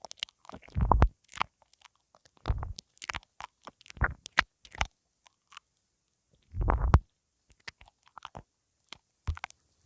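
ASMR mouth sounds nibbling on a pin (lavalier) microphone: irregular wet clicks and smacks, with a few heavier low thuds as the lips press on the mic.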